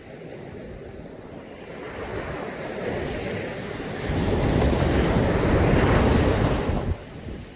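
Caribbean sea surf washing onto a beach, with wind buffeting the microphone. The sound swells through the first half, is loudest with a deep rumble about four to seven seconds in, then drops off suddenly near the end.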